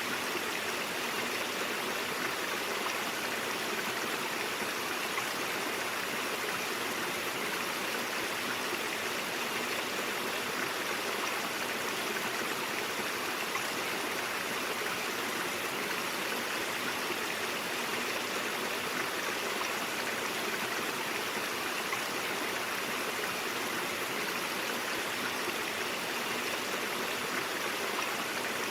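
Stream water flowing steadily: an even, unbroken rush of running water.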